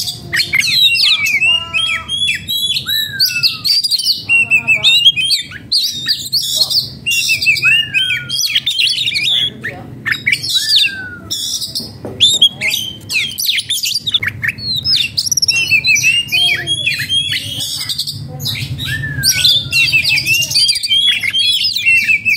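Oriental magpie-robin singing an unbroken, rapid song of chirps, trills and short falling whistles: the agitated, aroused song of a bird in breeding excitement.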